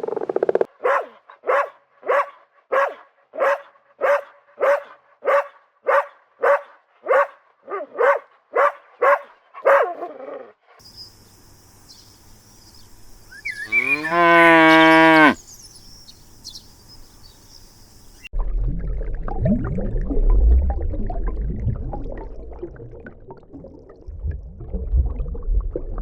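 A cow mooing: one long, loud call that falls in pitch, about halfway through. Before it comes a run of short, evenly spaced calls, about two a second, and after it a rough, low rumbling.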